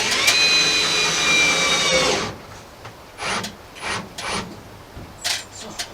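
Cordless drill driving a screw into a wooden ceiling board. It spins up with a brief rising whine, runs steadily for about two seconds and then stops suddenly, followed by a few short, quieter knocks.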